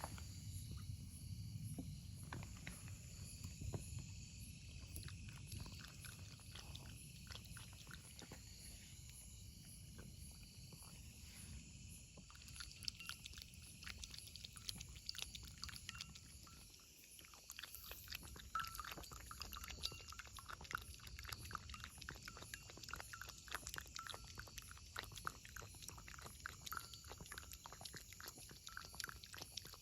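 Stray cats eating, with a faint, rapid run of small wet chewing and smacking clicks.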